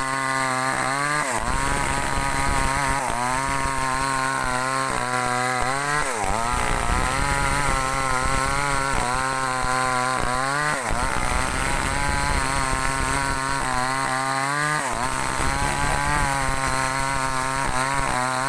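Small two-stroke chainsaw running at high revs while cutting a log into planks. Its pitch holds steady, then drops sharply and recovers about five times, a few seconds apart.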